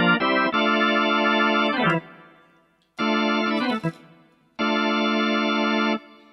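Organ tone on a Casio AiX-engine electronic keyboard, playing sustained chords that stop abruptly. The pitch of a chord slides down twice, near 2 s and again near 4 s, before a final chord is held for over a second.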